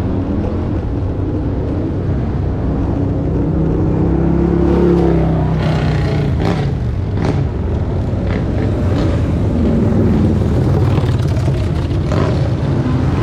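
Motorcycle engines running and revving as a group of motorcycles rides past, with one engine rising and then falling in pitch about four to five seconds in.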